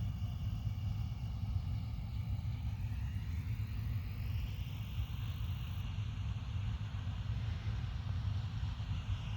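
Combine harvester running in the field: a steady low engine rumble with a high machinery whine above it that rises in pitch around the middle and falls again near the end.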